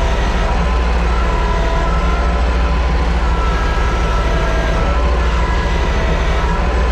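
TYM T224 subcompact tractor's diesel engine running steadily, a continuous deep rumble with a faint wavering whine over it.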